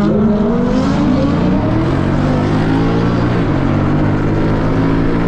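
Car engine at full throttle, its pitch rising steadily, then dropping suddenly about three and a half seconds in on an upshift and rising again.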